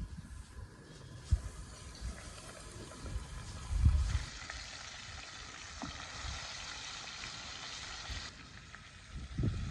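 Hot oil sizzling as chicken wings fry, with a couple of low thumps. The sizzle grows louder about four seconds in and cuts off suddenly near the end.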